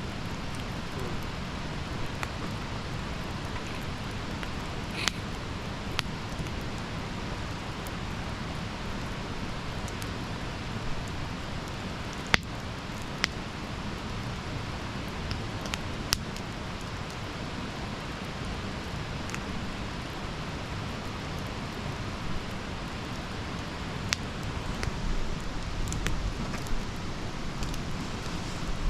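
Wood campfire burning: a steady low hiss and rumble with scattered sharp crackles and pops every second or two, the sharpest pop a little after twelve seconds in, the low rumble swelling near the end.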